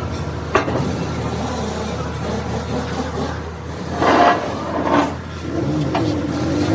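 Steady low mechanical drone, like a running engine or machine, with a few sharp knocks about half a second in and about four seconds in.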